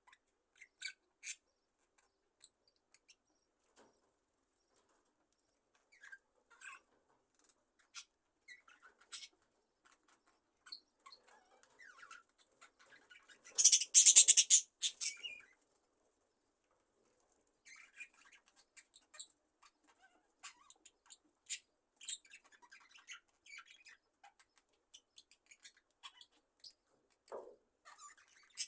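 Budgerigar flock at rest: sparse, soft high chirps and small clicks. About halfway through, a louder flurry lasts about two seconds.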